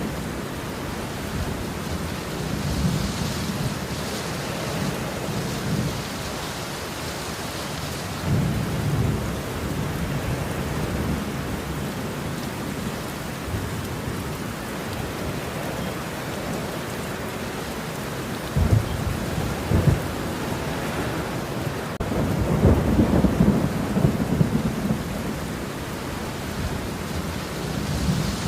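Steady rain with thunder rolling in low rumbles several times. A little past halfway come two sharp cracks, followed by a longer, louder rumble.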